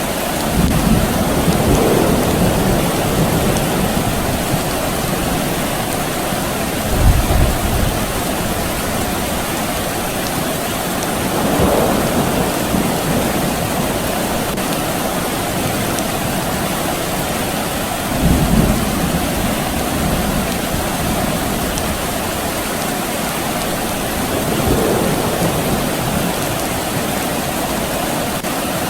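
Soft, steady rain with distant thunder. Low rolls of thunder come about five times, a few seconds apart, the sharpest about seven seconds in.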